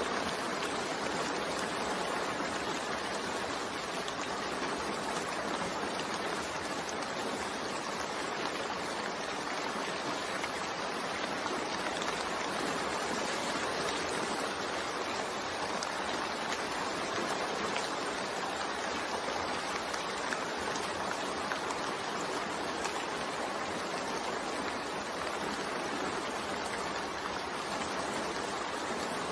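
Steady rain falling, an even, unbroken hiss with faint scattered drop ticks.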